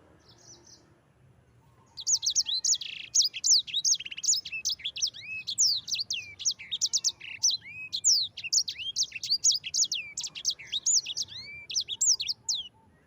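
Sanger songbird singing a long rolling song of rapid, sweeping high notes. The song begins about two seconds in and stops just before the end.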